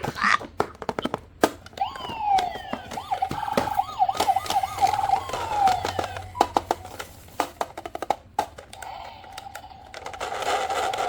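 Toy vehicle's electronic siren sounding, a wailing, warbling tone that starts about two seconds in, fades out around the middle and comes back near the end, with many sharp plastic clicks and taps from the toy being handled.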